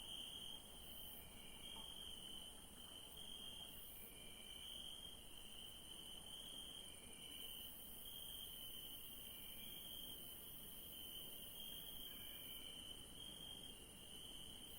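Crickets chirping in a steady, faint chorus: a continuous high trill that swells and fades about once a second, with a fainter, higher hiss of insects behind it and a short lower chirp every few seconds.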